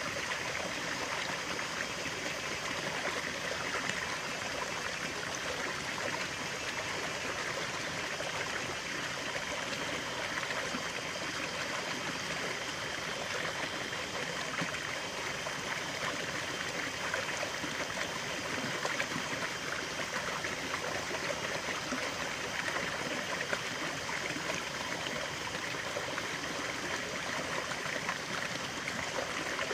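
Running water of a small stream, a steady trickling and babbling flow that holds an even level throughout.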